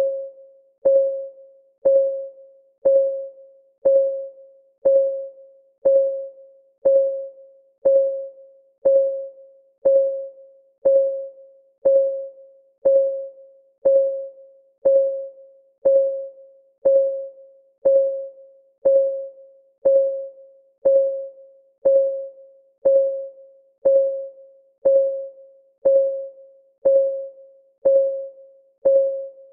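Countdown timer's clock-tick sound effect, one tick a second, each tick a short pitched ping that dies away quickly.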